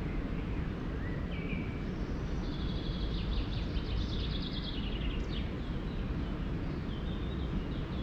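A songbird singing over a steady low rushing background noise: a few short whistled notes, then a fast high trill lasting about two and a half seconds near the middle, and a few more short notes near the end.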